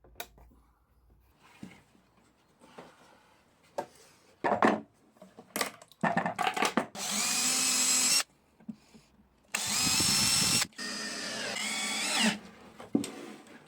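A handheld power drill runs twice, each time for about two seconds, with a steady whine that rises in pitch at the end of the second run. Light knocks and clatter of handling wood and parts come before it.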